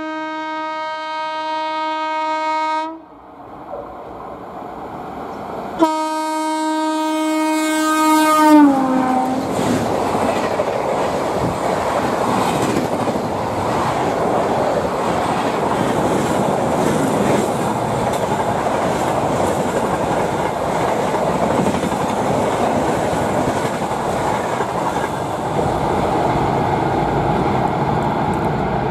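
Electric locomotive's horn sounding two long blasts, the second dropping in pitch as the locomotive passes, followed by the steady rush and wheel clatter of a fast express train's coaches running through the station.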